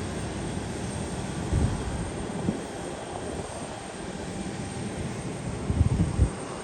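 Aircraft engines rumbling steadily, with a few brief low thumps about a second and a half in, at two and a half seconds, and near the end.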